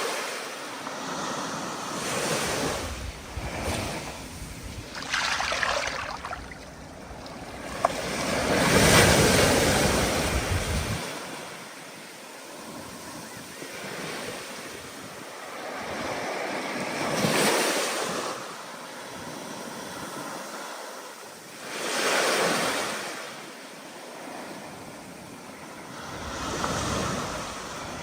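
Stormy ocean surf: waves breaking and washing in, swelling and falling every few seconds, with the biggest surge about nine seconds in.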